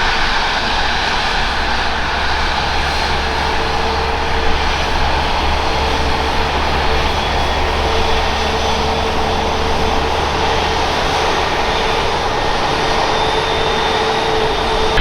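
Jet airliner engines running, a loud steady rush with one steady tone held through it.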